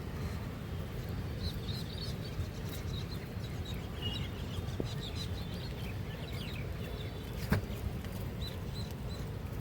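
Small birds chirping in quick, high, repeated calls over a steady low rumble, with one sharp click about three quarters of the way through.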